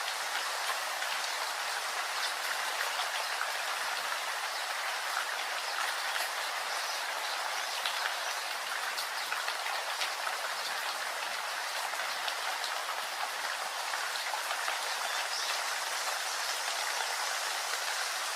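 Steady rain with many small drops pattering, an even hiss without letup.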